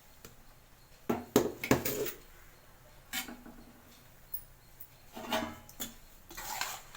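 A spoon knocking and scraping against cookware as half-cooked rice is spooned into a clay pot for layering biryani: a cluster of loud clinks about a second in, then scattered scrapes and knocks.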